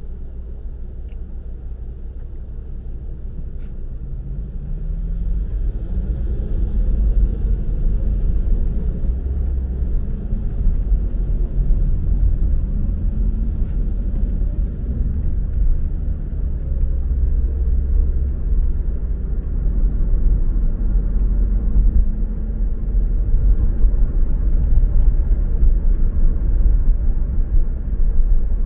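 Low, steady rumble of a car driving on the road, growing louder about five seconds in.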